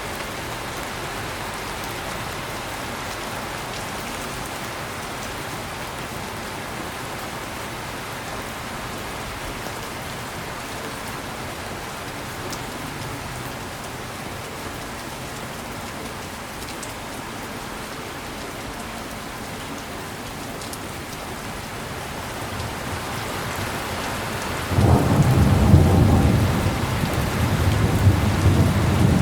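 Heavy rain falling steadily on a surface, a constant hiss. About 25 seconds in, thunder breaks in suddenly with a loud, deep rumble that continues to the end.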